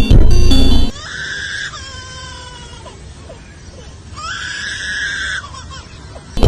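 Music stops about a second in, then an animal screams twice: a short high call, and a second, longer one about four seconds in. Music returns at the very end.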